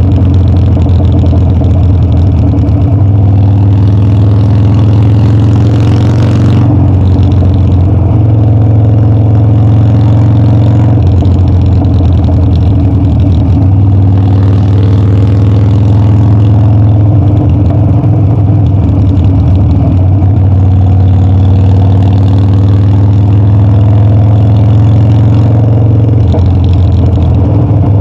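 Harley-Davidson Dyna's air-cooled V-twin engine running on the road, its pitch rising and dropping several times as the throttle and gears change.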